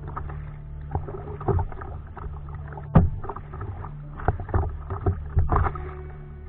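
Kayak paddle strokes on the sea: irregular splashes and knocks as the blades dip into the water, about one or two a second, with the sharpest one about halfway through.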